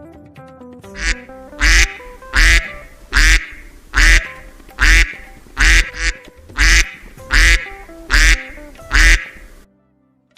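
A duck quacking about a dozen times, roughly one quack every three-quarters of a second, over light background music. The music cuts off shortly after the last quack.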